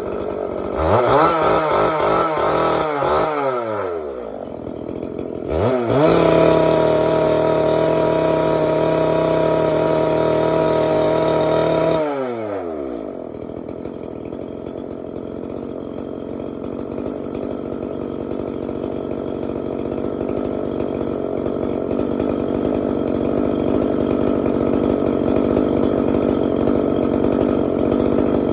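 Yamabiko CSG-673SL two-stroke engine cutter running: idling, revved in several quick throttle blips about a second in, then held at full throttle for about six seconds before dropping back to a steady idle.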